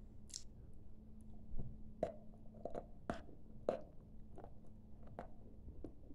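Close-up chewing of a mouthful of dry white clay with the lips closed: irregular crisp crunches, about one or two a second, from about two seconds in.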